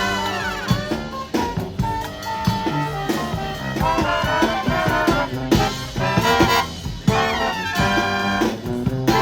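Brass band playing an upbeat, jazzy tune live: trumpets and trombones over drums.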